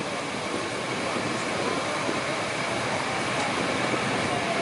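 Passenger train hauled by an EP05 electric locomotive pulling out of a station at low speed: steady running noise of the moving coach, slowly growing louder as it gathers speed.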